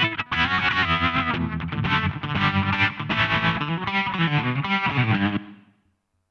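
Electric guitar played through SSL's MODULE8 multi-effects plugin, with tremolo and its Space reverb on. About five and a half seconds in the playing stops and the reverb tail fades out.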